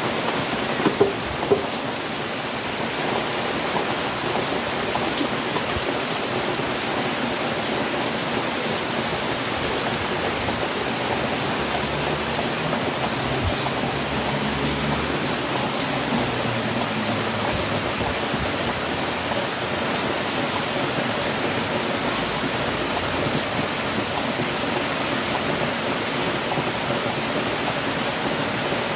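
Steady rain on a house roof, an even hiss of falling water, with a few sharper taps about a second in.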